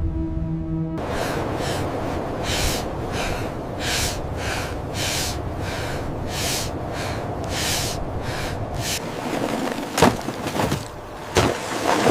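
Footsteps crunching through snow, about two a second, over a steady rush of wind. Two sharp knocks near the end.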